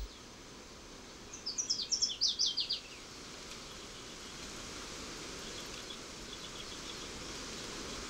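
A songbird singing one quick run of about a dozen short, high notes that step down in pitch, about a second in, over steady outdoor hiss. Faint high ticking follows later.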